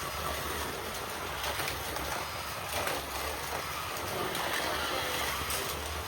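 1/32 slot cars lapping a Carrera Digital 132 track: their small electric motors whine, rising and falling with the throttle, over the steady clatter of the cars running along the plastic track. A low hum sits underneath.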